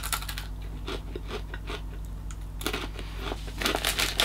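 Mouth chewing thin salted pretzel sticks, with scattered short crunches. From about three seconds in, a plastic snack packet crinkles as it is picked up and handled.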